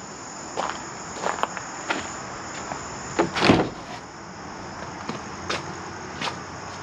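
Steady high chirring of insects, with scattered footsteps and knocks; the loudest knock or rattle comes about three and a half seconds in.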